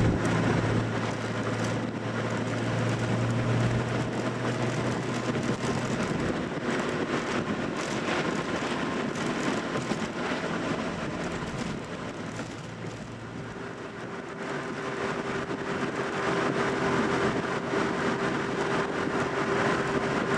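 Classic Nissan Skyline (Kenmeri) cruising on the open road: a steady drone of engine and tyre noise. A low engine hum is strong for the first few seconds and fades away. A steady higher tone comes in about two-thirds of the way through.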